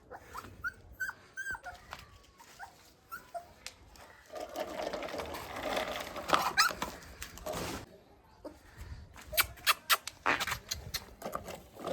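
Puppy giving short, high whimpers about a second in, followed later by scuffling noise and a run of sharp clicks.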